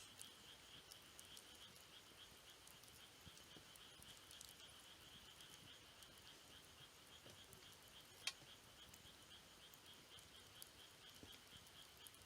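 Faint wood campfire crackling, with scattered sharp pops and one louder pop about eight seconds in. Behind it runs a steady, high-pitched insect chirring that pulses rapidly.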